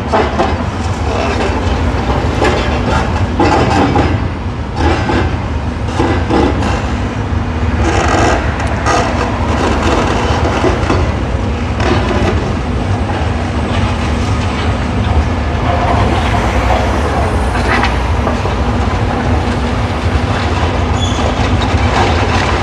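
Demolition machinery at work: a steady diesel engine drone with continual irregular clattering and knocking of broken concrete and brick, from excavators and a crusher breaking up rubble.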